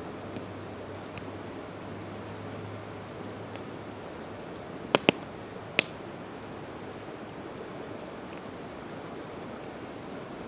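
Campfire of split evergreen wood burning with a steady hiss and three sharp pops about five to six seconds in. A cricket chirps about twice a second through the middle.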